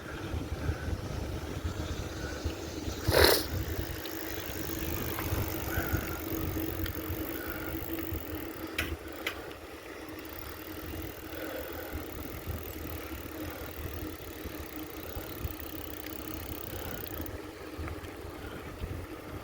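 Steady low rumble of wind on the microphone and tyres rolling while riding a bicycle, with a faint steady hum. One loud knock about three seconds in, and two faint clicks around nine seconds.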